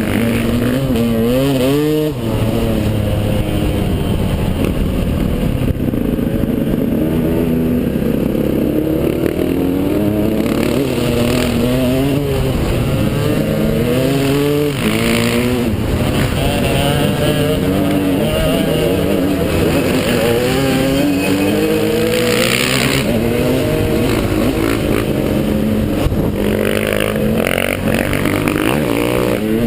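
Dual-sport motorcycle engine running under way, its revs repeatedly rising and falling as the rider works the throttle and gears, with a few short bursts of rushing noise.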